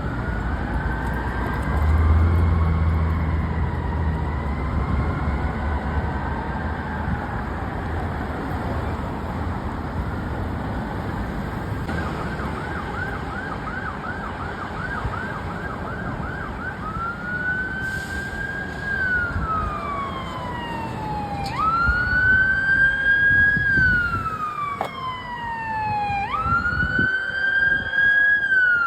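Fire engine siren over engine and road noise. Faint rising and falling wails give way, about twelve seconds in, to a quick yelp of about two sweeps a second. The siren then switches to loud slow wails that each rise quickly and fall slowly over four or five seconds, three times.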